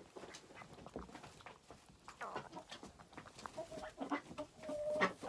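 Scuffling, scrabbling and rustling as a young rabbit is held and checked. In the second half there are two short, steady pitched calls, like a hen's drawn-out cluck.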